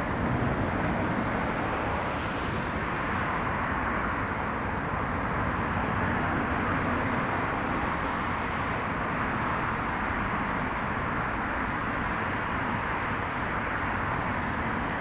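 Aircraft engine noise: a steady, even rush that holds unchanged throughout.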